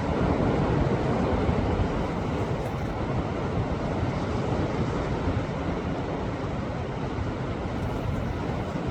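Sea waves surging onto a rocky shore: a continuous rushing wash of surf, swelling a little in the first couple of seconds and then steady.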